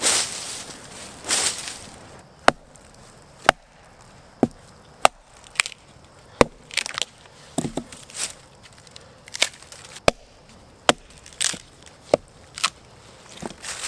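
Wood being chopped: a series of sharp, separate knocks at an irregular pace of roughly one a second. Two brushing swishes come in the first two seconds.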